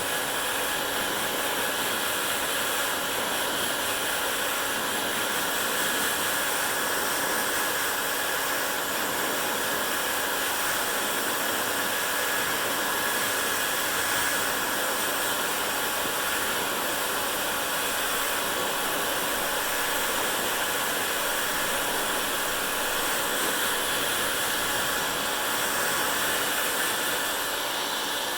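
Hair dryer running continuously: a steady blowing rush of fan and airflow with a faint motor whine.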